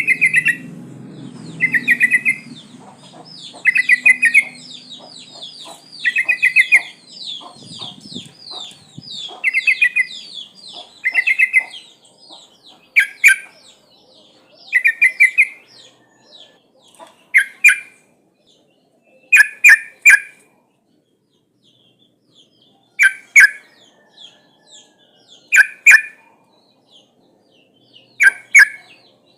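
Yellow-vented bulbul (trucukan) calling: short bubbly phrases repeated about every two seconds. A fast, high chatter runs beneath them for the first twelve seconds or so. After that the phrases come farther apart, with silence in between.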